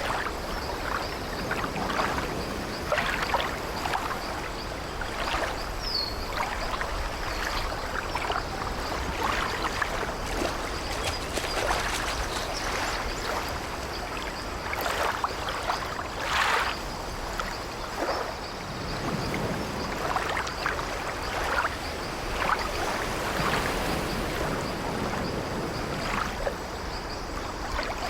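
Sea water lapping and sloshing against an old wooden ship, with irregular creaks of the ship's timbers over a steady wash of waves.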